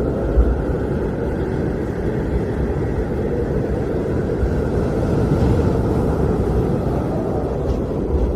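Blizzard wind blowing steadily in a deep, rumbling rush, swelling slightly about halfway through.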